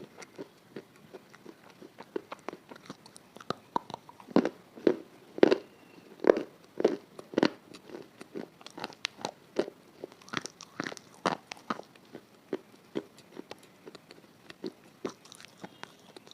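Crunchy food being bitten and chewed close to the microphone: a run of sharp, irregular crunches, loudest from about four to eight seconds in.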